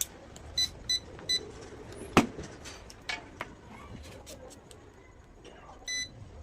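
Three short electronic beeps in quick succession, then one slightly longer beep near the end, with scattered clicks and a sharp knock about two seconds in.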